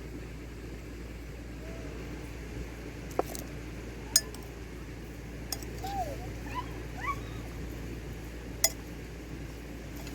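A handful of sharp clinks, spaced a second or more apart, over a steady low background hum. A few short chirps sound about two-thirds of the way through.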